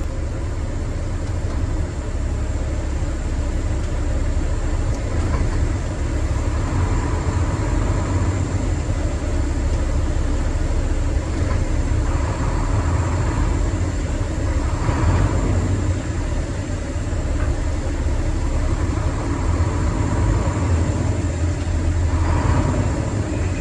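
Truck's diesel engine running under the cab while the driver works through the gears of the manual transmission, with a steady low rumble that swells a few times, around the middle and near the end, as the engine is revved.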